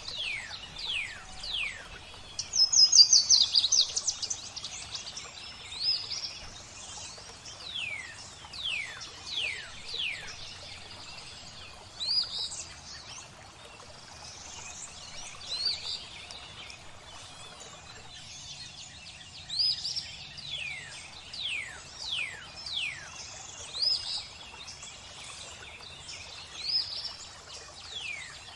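Songbirds singing: repeated high whistles that slide downward, about one a second, with a loud rapid trill about three seconds in. Underneath is a faint steady hiss of flowing water.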